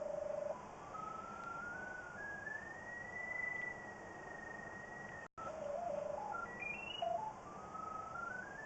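Handheld pipe locator's electronic tone sweeping in small pitch steps. It climbs and falls as the signal from the sewer camera's sonde grows stronger and weaker, as the locator is worked over the camera head to find its position and depth. The sound cuts out briefly about five seconds in.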